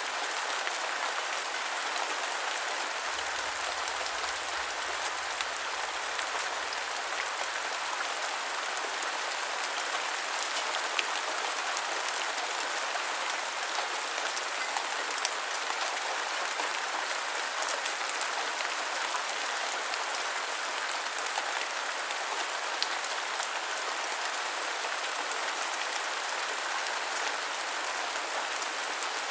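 Steady rain falling, an even hiss sprinkled with small drop ticks.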